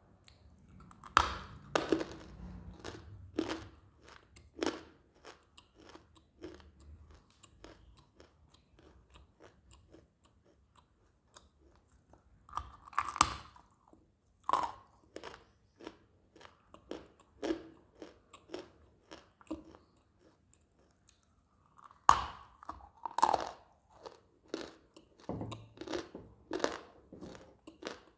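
A person biting into and chewing hard, dry, unsoaked eating clay. Sharp loud crunches come as pieces snap off, about a second in, about halfway through and again about 22 seconds in. Smaller chewing crunches fall in between, with short pauses.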